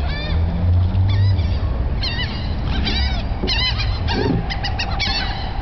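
A flock of seagulls calling: many short squawks, overlapping, in quick clusters that come thickest near the end, over a low rumble.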